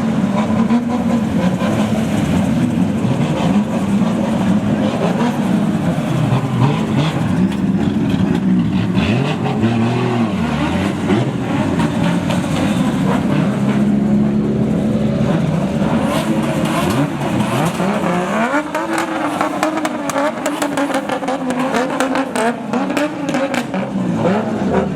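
Several drift cars' engines revving up and down repeatedly, the pitch rising and falling again and again, with a steady wash of noise over them.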